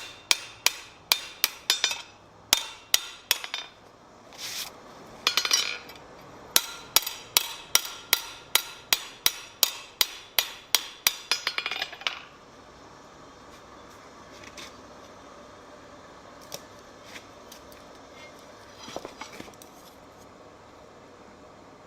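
Blacksmith's hammer striking hot steel on an anvil in a steady rhythm, about two to three ringing blows a second, with two short scraping pauses, stopping about twelve seconds in. After that a steady low hiss with a few light clinks.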